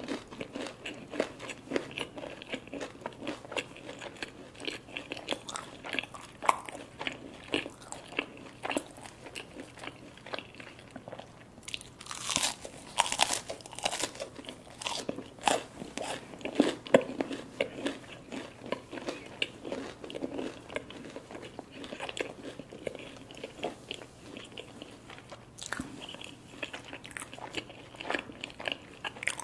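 Close-miked biting and chewing of crunchy food, a steady run of crisp crunches, with louder crunchy bites about twelve seconds in and again around seventeen seconds.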